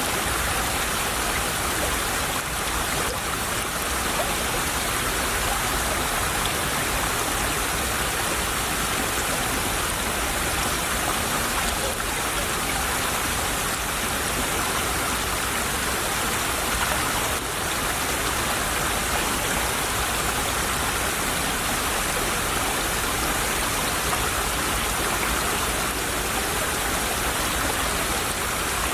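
Small stream of water flowing and babbling steadily over stones.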